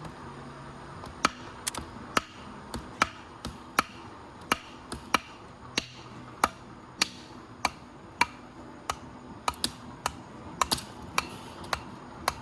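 Firewood being split with a blade driven in by repeated sharp wooden knocks, about two a second at an uneven pace. The piece is hard wood that the blade only goes into slowly.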